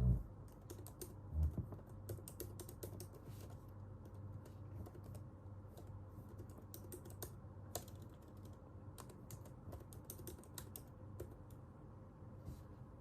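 Computer keyboard typing in irregular runs of key clicks, with pauses between bursts. Two dull low thumps stand out, one at the very start and one about a second and a half in.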